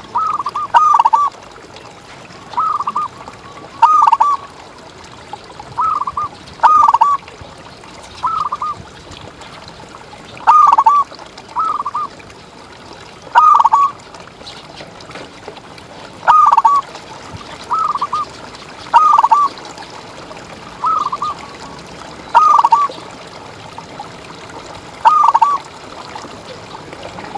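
Zebra dove (perkutut) cooing: short, warbling coo phrases repeated every one to three seconds, many of them in close pairs.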